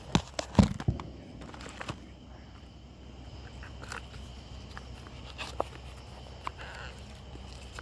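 A small firework popping: a quick cluster of sharp pops in the first second, then a few scattered single snaps.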